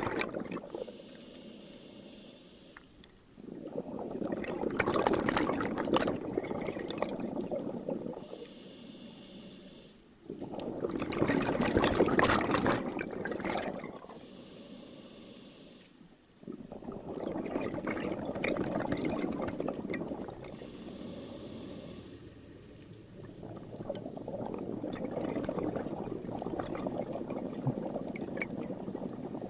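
Scuba diver breathing through a regulator underwater. Each exhale is a long rush of bubbles and each inhale a quieter hiss, about four breaths in all.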